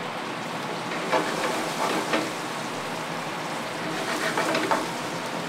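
Artichoke pieces frying in hot oil in a sauté pan, a steady sizzle with louder spurts of sizzling about a second in and again around four seconds in as pieces go into the oil.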